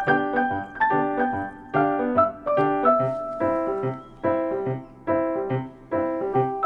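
Background piano music: a light melody over chords struck in a steady beat.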